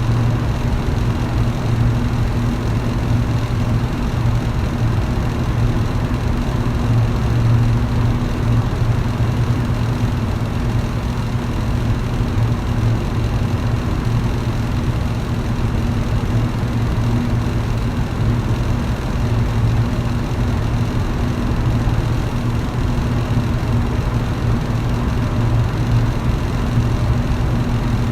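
Electric fan running steadily: a constant low hum under an even rush of air.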